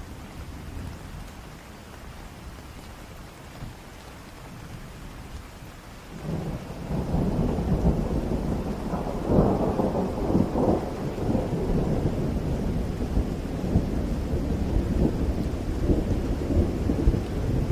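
Steady rain with a thunderclap breaking in about six seconds in, then a long rolling rumble of thunder that surges and fades over the rain.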